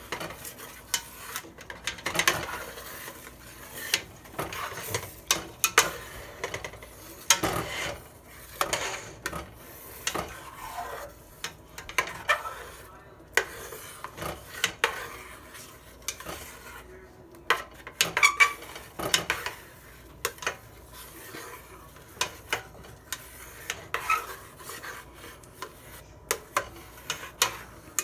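A utensil stirring and scraping against the bottom of a pot of chicken grease, flour and water as it thickens into gravy, in irregular scrapes and knocks. It is working loose the bits of fried chicken stuck to the pot bottom.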